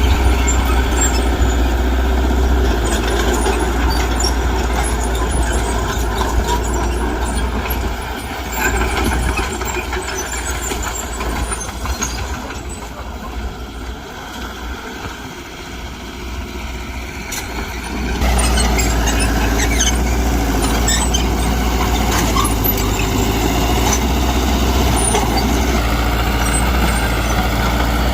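Diesel engine of heavy earthmoving machinery running steadily with a deep hum, with scattered short clicks and squeaks. It eases off in the middle and comes back up abruptly about 18 seconds in.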